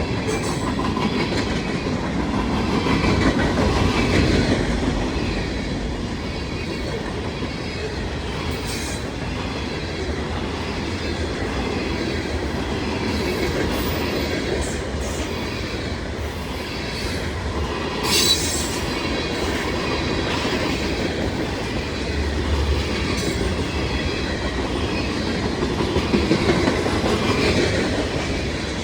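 CSX freight train's cars rolling past at track level, a steady rumble of steel wheels on rail with occasional clicks of wheels over rail joints and a faint wheel squeal.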